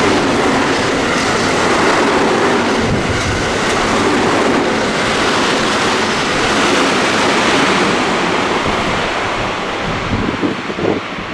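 Train passing close by at speed: a loud, steady rush of air and rail noise, with no horn, easing off near the end.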